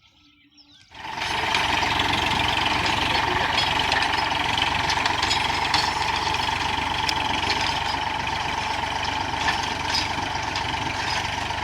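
Tractor engine running steadily under load, cutting in suddenly about a second in after near silence.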